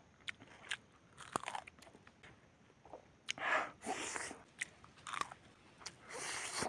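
Eating sounds of a man biting and chewing roasted chicken: scattered soft clicks, with louder stretches of chewing about halfway through and again near the end.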